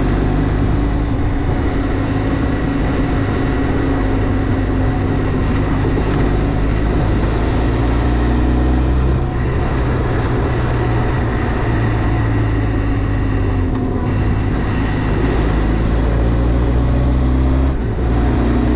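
Benelli TRK 502 motorcycle's parallel-twin engine running steadily at riding speed, heard over dense wind and road noise. The engine note dips briefly three times, as the throttle eases or a gear changes.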